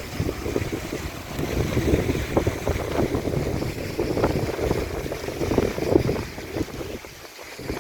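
Strong wind buffeting the microphone: a loud, gusty rumble that rises and falls, dipping briefly near the end.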